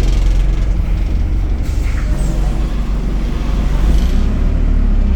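ADL Enviro 200 single-deck bus running, its diesel engine and Allison automatic gearbox making a steady low drone, with a faint brief rising whine about two seconds in.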